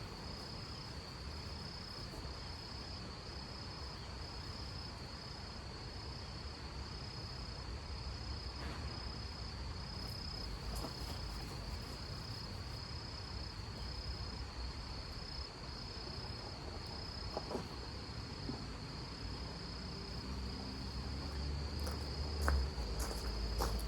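A cricket trilling steadily in a high, evenly pulsing song, about one pulse a second, over a low rumble. A few sharp knocks come near the end.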